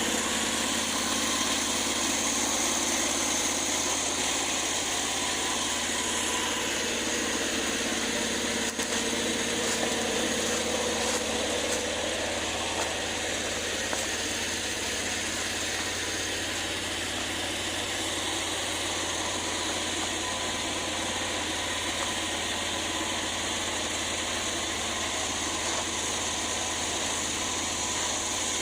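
Predator 670 V-twin go-kart engine running steadily at low revs, a little louder over the first twelve seconds or so.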